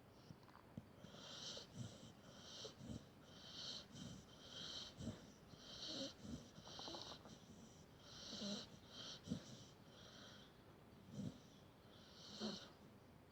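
Dog snoring faintly: a run of short, hissy breaths about one a second, with a brief lull about ten seconds in.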